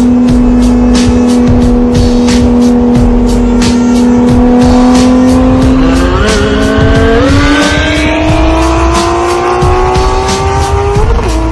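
A sports car's engine holds a steady high note for about six seconds, then climbs in pitch as the car accelerates, with a quick step or two in the note, before cutting off near the end. A music beat plays under it.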